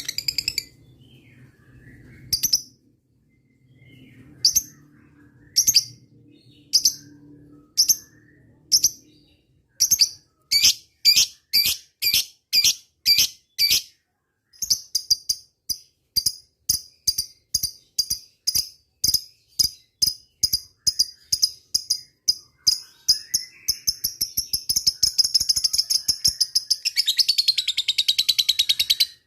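Lovebird calling: single sharp chirps about a second apart, then quick runs of chirps, building near the end into a long unbroken chattering trill, the 'ngekek' call prized by lovebird keepers.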